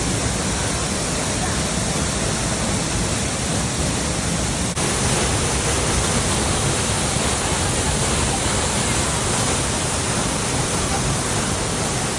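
Waterfall cascading with a steady, even rush of falling water, with a brief break in the sound about five seconds in.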